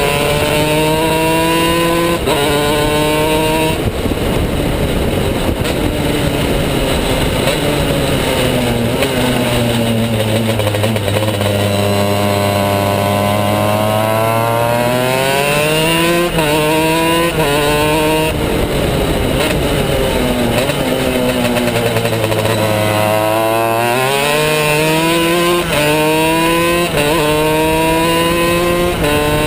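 Two-stroke superkart engine at racing speed. It revs up through the gears, with quick upshifts that each drop the pitch briefly, and it falls in pitch as it slows for corners. The cycle runs twice: a long fall in the first half, a climb with two shifts a little past halfway, then another fall and another climb through the gears near the end.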